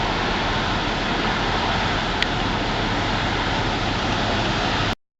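Heavy hurricane rain pouring down in a steady, even hiss that cuts off abruptly near the end.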